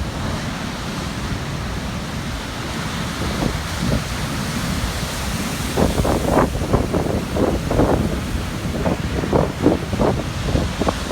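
Atlantic surf breaking and churning on a rocky shore at high tide: a steady wash of noise, with stormy wind buffeting the microphone in quick, flickering gusts from about six seconds in.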